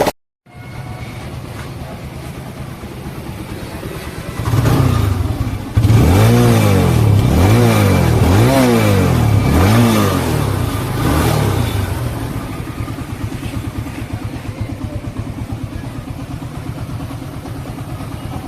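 TVS Apache motorcycle's single-cylinder engine idling, then revved up and down about five times in quick succession before settling back to idle.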